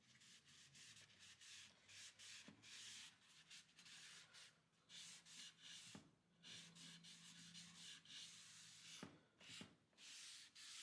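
Near silence: faint, intermittent rubbing with a few light ticks.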